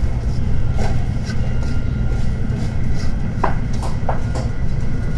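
Tokaido Shinkansen train running at speed: a steady low rumble with a few light clicks and knocks, a cluster of them about three and a half to four and a half seconds in.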